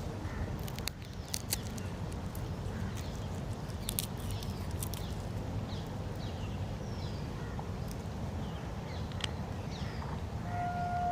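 Scattered short, high, falling chirps of small birds over a steady low rumble, with a few sharp clicks about a second in and again around four seconds in.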